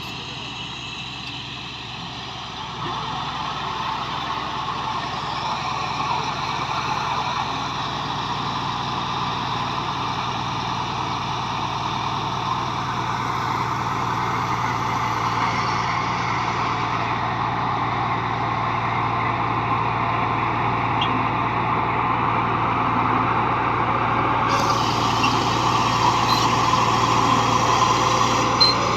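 Bulldozer's heavy diesel engine running steadily under load. It gets louder about three seconds in and keeps slowly building.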